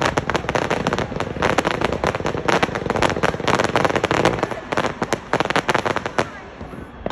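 Fireworks barrage: a rapid, dense run of bangs and crackles, many a second, from a fan of comets and bursting shells. It thins out about six seconds in, and one more loud bang comes at the end.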